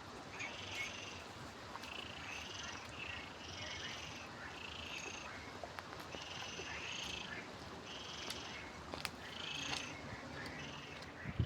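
Repeated animal calls, short and fairly high-pitched, coming about once a second over a faint outdoor background, with a single knock near the end.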